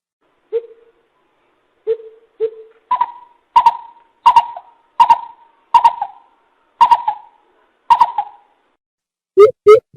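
Coucal (bìm bịp) calling: a series of deep, owl-like hoots. A few soft low notes come first, then louder, higher hoots about every two-thirds of a second. After a short pause, a quicker run of low hoots starts near the end.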